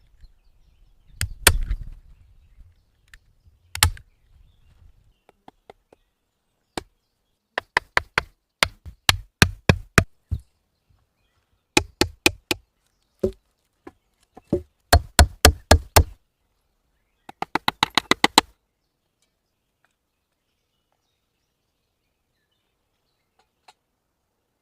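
Sharp knocks and taps from wood being worked by hand: two single knocks, then several quick runs of knocks at about three to four a second. The knocking stops about three-quarters of the way through.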